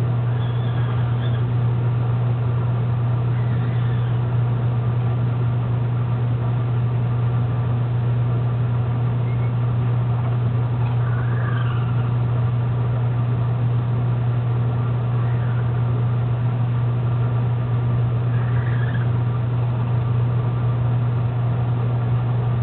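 Steady low hum at an even level, with a few faint, short chirping calls over it at intervals.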